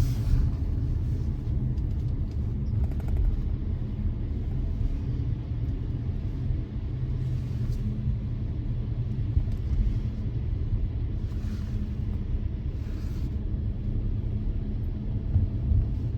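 Car driving along, a steady low road-and-engine rumble heard from inside the cabin.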